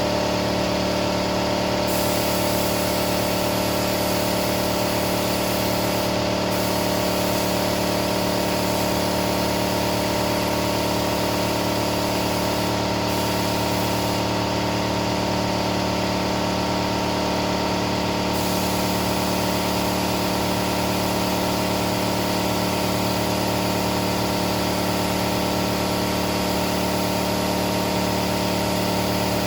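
A paint spray gun hissing as it sprays primer at low pressure, the hiss stopping briefly a few times as the trigger is released. Underneath is a steady machine hum.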